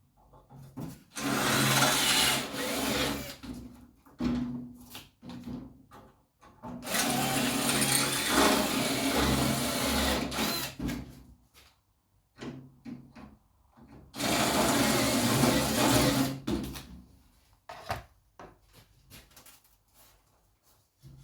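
Electric drill drilling out the pop rivets that hold a chrome strip on a steel car door: three runs of a couple of seconds to about four seconds each, with small clicks and knocks between them.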